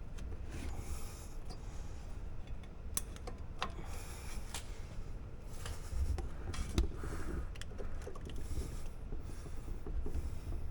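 Small metal clicks and scrapes from handwork on a rear disc-brake caliper, as a wire pad retaining clip is worked under the slide pin and over the pad shim, over a low steady rumble.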